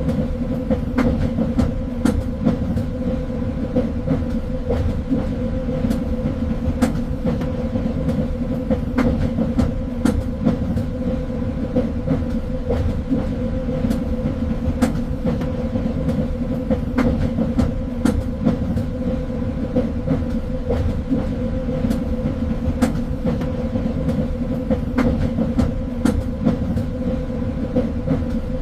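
Train running along the track: a steady low rumble and hum, with irregular sharp clicks and knocks from the wheels on the rails.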